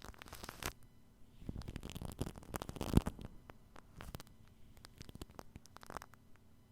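Shaving cream foam squished and rubbed on a binaural microphone's ears, giving irregular close-up wet crackles and clicks, busiest from about one and a half to three seconds in, with one sharp pop near the middle.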